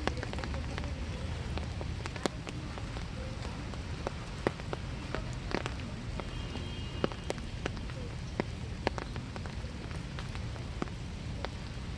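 Winter rain falling steadily over a small wood, a constant hiss over a low rumble. Many separate drops tap close by at irregular moments.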